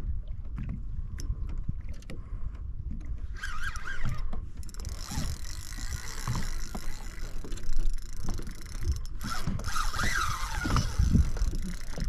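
Wind and water noise around a kayak, with knocks against the hull, while a large fish is fought on rod and reel. From about three seconds in a steady hiss sets in, and twice there is a brief wavering whine.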